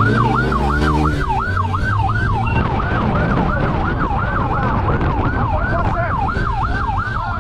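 Police siren in a fast yelp, sweeping up and down about two and a half times a second. Underneath it a vehicle engine revs up in the first second or so, then runs on with road noise.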